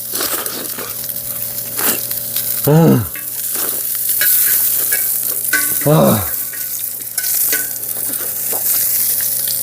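Lamb sizzling on a cast-iron cauldron lid over a wood stove: a steady hiss of frying meat and fat. Twice, about three and six seconds in, a man's voice gives a short rising-and-falling hum.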